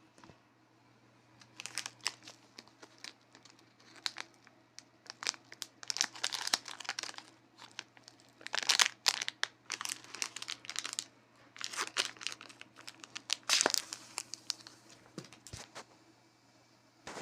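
Crinkly material being handled, crackling and rustling in irregular bursts, with short sharp crackles. It starts about a second and a half in and stops a few seconds before the end, over a steady low hum.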